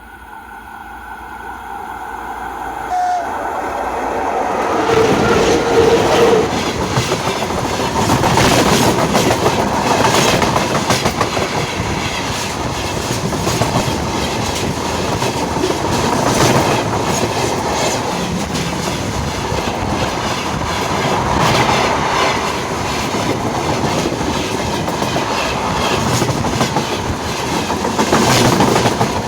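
VL10 electric locomotive and then its train passing directly over a phone lying under the track. The rumble and wheel clatter build over the first five seconds into a loud, continuous rattle of wheels on rail, swelling about every six seconds as each car's wheelsets pass overhead.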